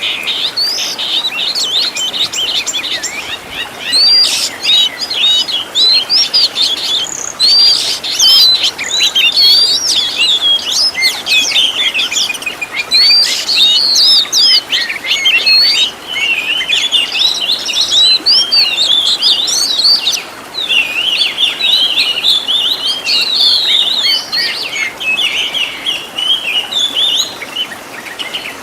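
Oriental magpie-robin (kacer) singing a fast, unbroken song of varied whistles and chirps, packed with rapid-fire phrases mimicked from other birds.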